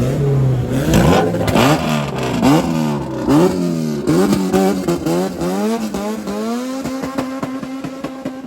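Two Honda drag cars, an all-motor F-series and a turbocharged B-series, accelerating hard down the strip. The engine pitch climbs and drops back again and again as they shift up through the gears, then settles to a steadier, fading tone near the end.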